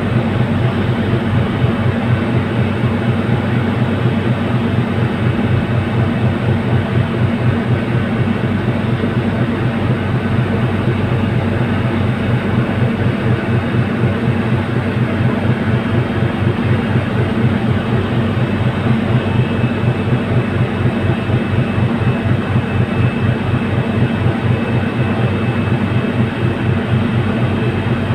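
Car ferry's engines running: a loud, steady low drone with a fast, even throb.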